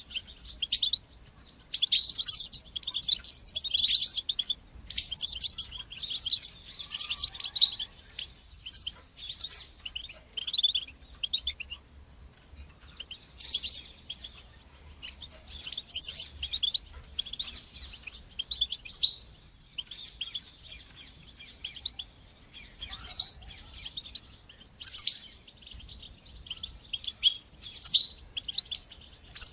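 European goldfinch singing: bursts of fast, high twittering song, densest in the first ten seconds or so, then shorter phrases broken by brief pauses.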